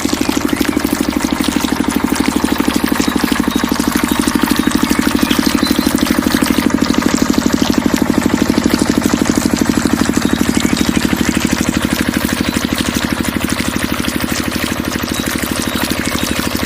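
Small engine idling with a fast, even chugging, growing a little louder midway and easing back toward the end.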